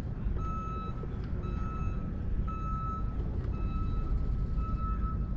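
Electronic beeping: one steady tone sounding and stopping about once a second, like a warning alarm, over a constant low rumble of wind or motor noise.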